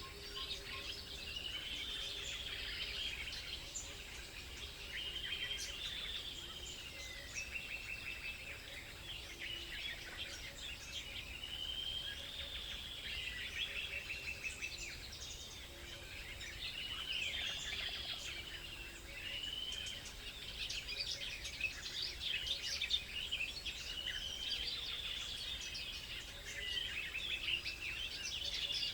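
Several songbirds singing and chirping, with one bird repeating a short, arching warbled phrase every few seconds among a scatter of quick chirps.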